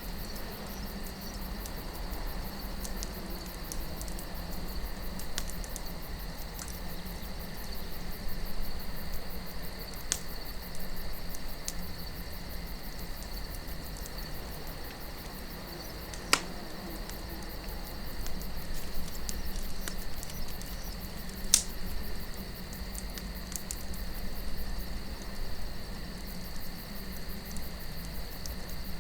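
Campfire wood burning with a soft crackle and a few sharp pops, under a steady insect trill like crickets and a low wind rush.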